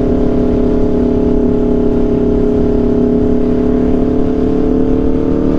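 Aprilia RSV4's V4 engine through an SC-Project CRT exhaust, running steadily at highway speed with its pitch creeping slowly up, over wind noise.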